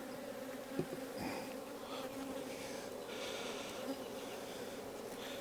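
Honey bees buzzing steadily around an open hive during a frame-by-frame inspection, with a couple of light knocks from handling the frames.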